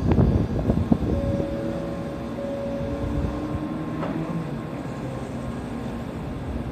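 N700 series Shinkansen standing at the platform just before departure, its doors closing: a steady low hum of the train's electrical equipment, with several steady tones that come in about a second in and shift in pitch in steps, and a single click about four seconds in.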